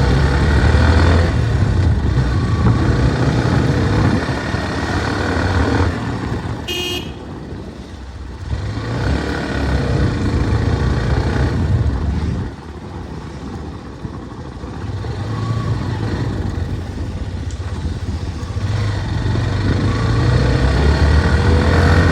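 Motorcycle on the move, its engine and wind noise rising and falling as the rider speeds up and eases off. A short horn toot comes about seven seconds in.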